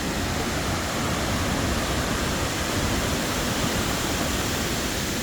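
Hurricane-force wind blowing steadily through trees, with wind buffeting the microphone.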